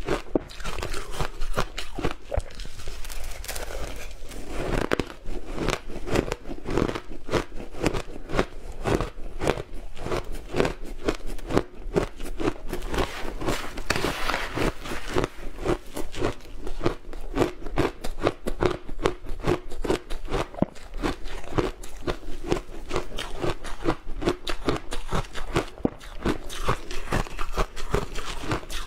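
Close-miked biting and chewing of a hard, crunchy food, a dense run of rapid crackling crunches without pause.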